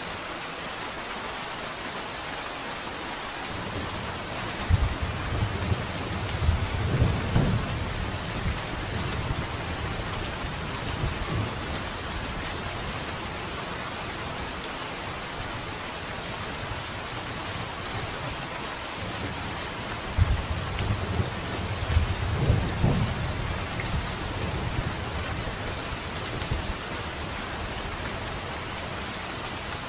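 Steady rain falling, with two rolls of thunder: the first starts with a crack about five seconds in and rumbles for several seconds, and a second, much like it, comes about twenty seconds in.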